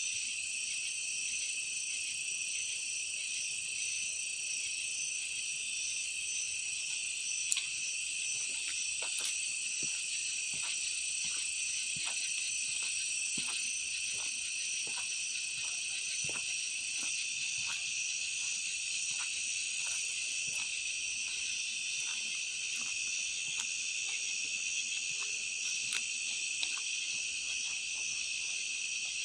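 Steady chorus of night insects singing at several high pitches without a break, with a few faint ticks here and there.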